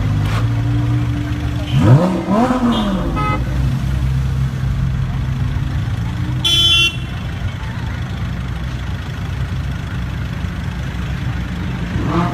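Car engine running steadily, revved briefly twice, about two seconds in and near the end, with a short high beep about halfway through.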